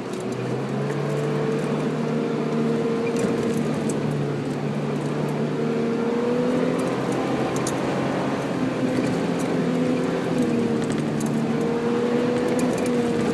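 Car engine running as the car drives along a sandy off-road track, heard from inside the cabin. Its note changes about five seconds in, then rises and falls slightly with the throttle. Light clicks and rattles scatter through it.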